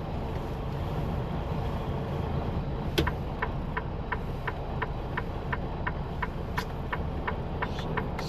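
Low, steady engine and road rumble inside a truck cab. From about three seconds in, the turn signal starts clicking steadily, about three clicks a second.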